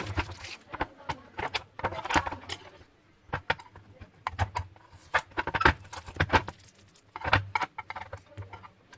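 Irregular clicks and crinkling rustles of hands handling a microwave oven's plastic membrane keypad panel.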